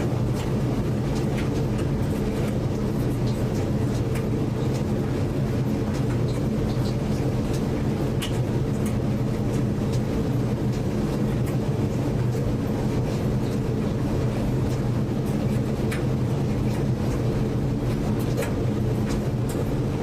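Washing machine running: a steady low hum with faint scattered ticks.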